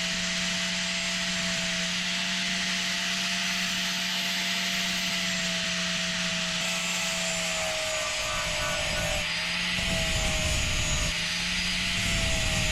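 Electric angle grinder running against welded sheet steel, grinding the welds on a car body patch panel flat. Its steady motor whine dips a little in pitch and the grinding grows rougher about eight seconds in as it is pressed harder.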